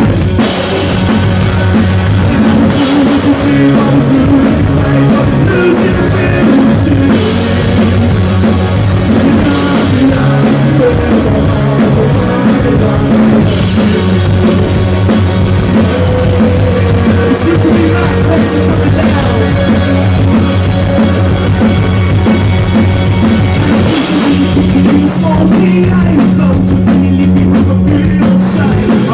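Live rock band playing loudly, with drum kit, guitar and singing, recorded with awful sound quality.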